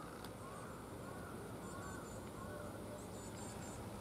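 Birds calling: a run of short arched calls in the first two and a half seconds, with clusters of quick high chirps in the middle and near the end, over a faint steady low hum.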